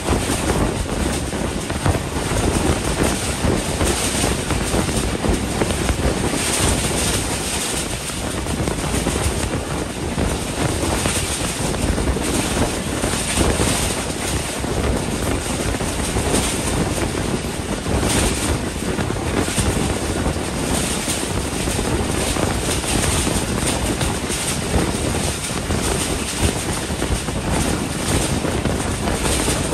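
A moving passenger train's steady rumble of wheels on the rails, mixed with wind rushing over the microphone from the open coach door, swelling and easing in gusts.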